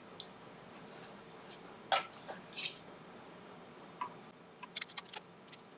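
Wood lathe running steadily while a turning tool takes short cuts across the inside of an Iroko platter. There are two sharp hissing bursts of cutting about two seconds in and a few quick clicks and scrapes near the end.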